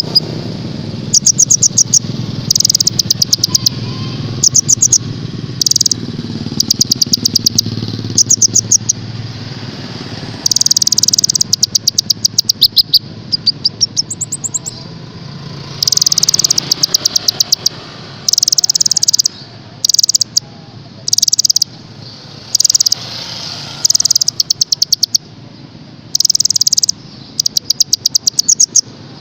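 Caged songbird singing, in repeated bursts of rapid, very high-pitched trills, each about half a second to a second long with short gaps between.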